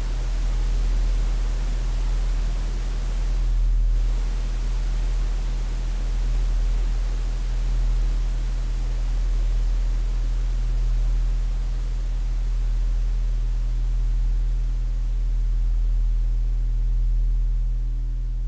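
Steady static-like hiss over a deep, steady low hum, gently swelling and ebbing in level; the hiss thins briefly about four seconds in and its upper part fades near the end.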